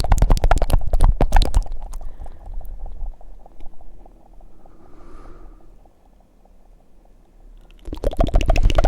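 Fast, wet tongue flutters and mouth clicks close to the microphone, a rapid string of clicks that fades to faint after about two seconds. There is a soft breath about halfway through, and loud flutters start again near the end.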